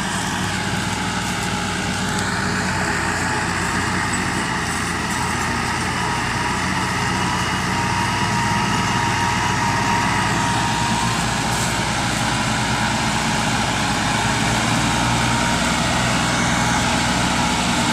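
Diesel tractor engine running steadily, as when pulling a loaded trolley.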